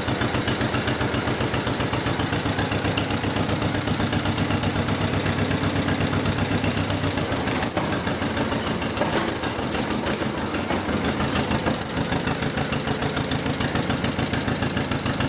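1955 John Deere 40S two-cylinder tractor engine running steadily with an even, fast pulse; the pitch of its note shifts slightly about halfway through.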